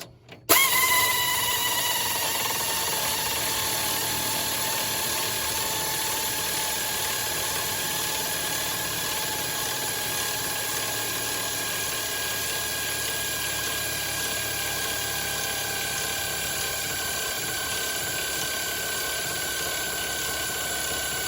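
Pneumatic air ratchet running continuously, spinning a race car's dry-sump oil pump by hand-held drive with the pump belt off, to push pre-heated oil through the engine before starting. A steady hissing whine that starts about half a second in; its pitch sags slightly over the first few seconds, then holds.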